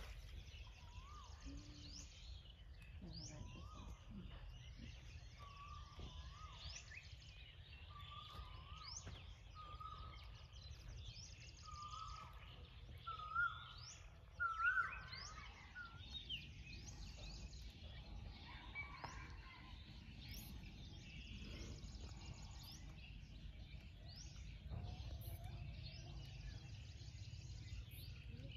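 Birds singing: one bird repeats a short rising call about once a second, each a little higher and louder, over high chirps and trills from other birds and a steady low rumble.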